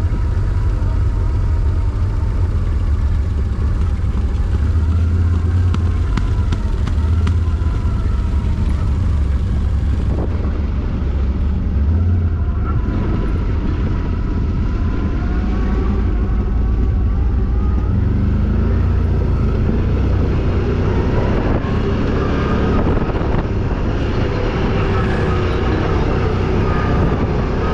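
ATV engine running, its pitch rising and falling as the throttle changes, over a heavy low rumble.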